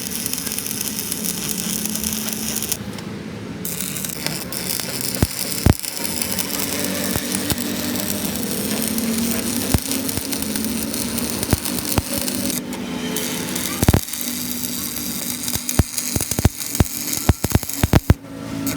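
Workshop noise: a steady hum with scattered sharp metallic clicks and knocks, coming thick and fast near the end.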